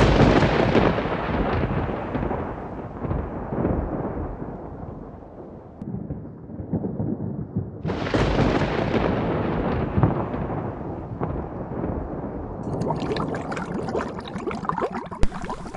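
Two claps of thunder, each starting suddenly and rolling away over several seconds, the second about eight seconds in. A steady hiss joins in near the end.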